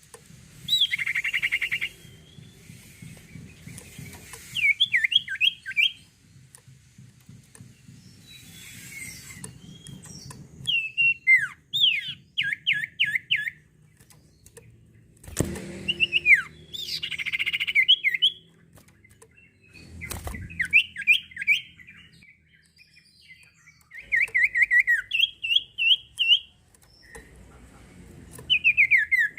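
Sirtu songbird singing in bursts: quick runs of sharp, sweeping whistled notes and fast trills, a new phrase every two to four seconds.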